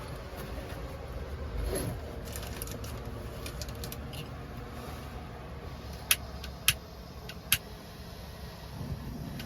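Three sharp clicks or knocks about half a second to a second apart, near the end, with fainter clicks earlier, over a steady low rumble.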